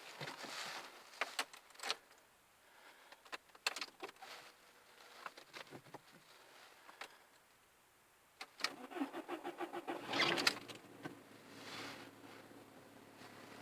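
Audi A3 8L's 1.6-litre four-cylinder petrol engine cold-started in hard frost: after a few scattered clicks and knocks, the starter cranks in fast even pulses for about two seconds, then the engine catches with a brief rise in level and settles into a steady idle.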